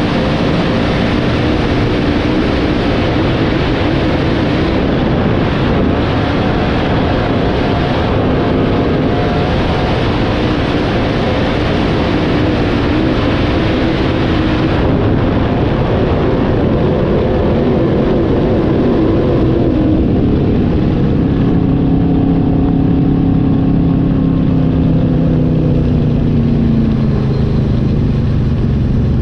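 Dirt modified race cars' engines running loud and continuous on a dirt oval. In the last several seconds the engine notes drop in pitch.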